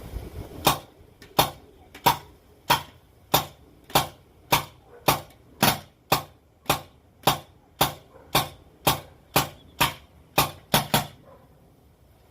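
Paintball marker fitted with an MCS Tornado magfed kit firing round paintballs in semi-auto, about twenty sharp shots at a steady pace of a little under two a second, the last two in quick succession. It is cycling and shooting well.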